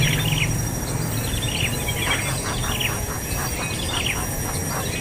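Bird chirping: quick runs of short, falling chirps, repeated about once a second, over steady background noise.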